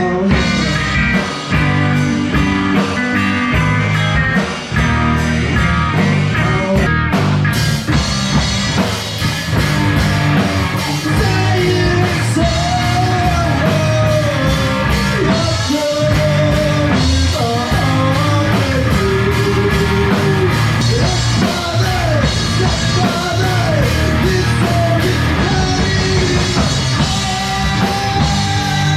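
A rock band jamming: drums and guitar, with the full band crashing in about seven seconds in and a voice singing over it.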